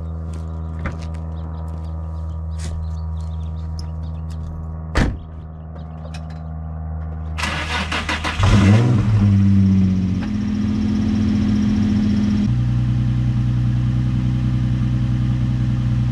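Nissan 350Z's V6 being started: the starter cranks for about a second, the engine catches with a flare of revs, settles into a fast idle, then drops to a lower steady idle a few seconds later. Before the start there is a steady low hum and one sharp click about five seconds in.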